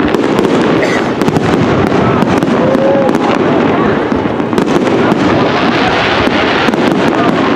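Fireworks display going off in a dense, continuous barrage of rapid pops and crackles, with no break in the noise.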